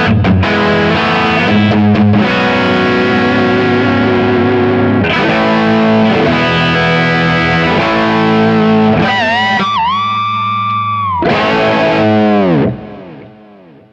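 Soloking MS-1 Custom HSS electric guitar played with heavy distortion: sustained chords and lead notes, then wavering bent notes about two-thirds of the way in. Near the end the notes slide down in pitch and the sound cuts and fades away.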